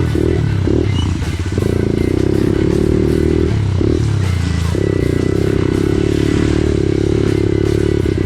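Off-road vehicle engine revving up and down, then held at high, fairly steady revs with a couple of brief drops in pitch.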